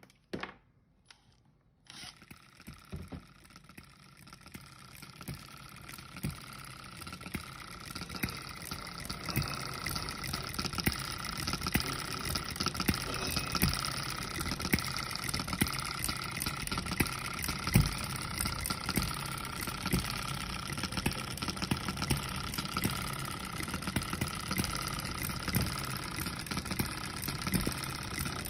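Scale-model hit-and-miss engine (Ball Top Monitor type) starting about two seconds in and running with a steady mechanical clatter and irregular sharper knocks. It grows louder over the first several seconds as it comes up to speed.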